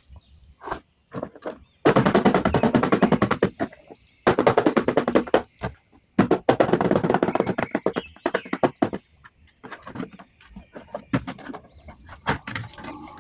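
Three long bursts of rapid rattling clatter, each lasting a second or more, with scattered sharper clicks between and after them.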